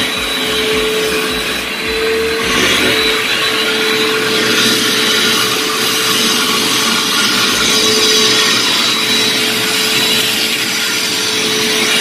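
ProTeam commercial backpack vacuum running steadily with a constant whine as its attachment sucks pet hair and dust from the carpet edges. There are a few low knocks in the first few seconds.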